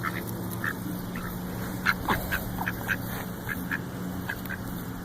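Several ducks calling in short, rapid quacks, a few each second, over a steady low hum.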